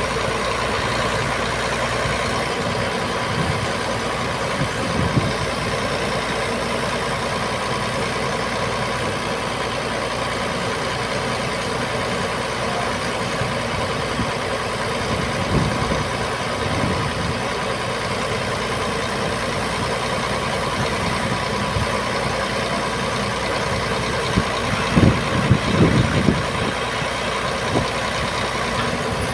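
Heavy diesel engine of an Iveco boom truck running steadily at idle during counterweight loading, with a few knocks near the end.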